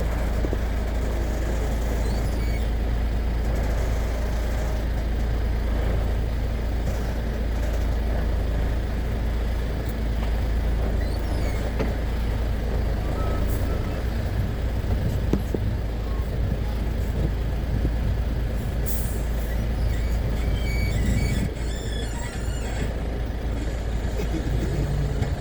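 Truck engine running, a steady low rumble with road and mechanical noise over it, and a brief high hiss about two-thirds of the way through.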